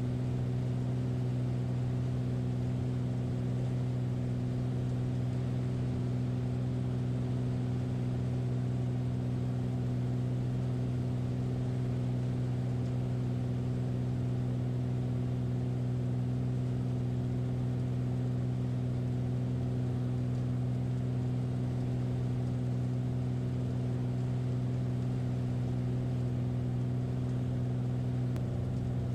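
Piston engine and propeller of a light aircraft running at steady approach power, a constant drone with no change in pitch. The power is set a little higher than usual, 1.5 to 2 inches of extra manifold pressure, to hold the glide path against a strong headwind.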